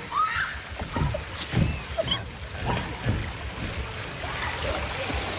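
Steady rush of water, with a few brief faint voices and some low knocks and splashes through it.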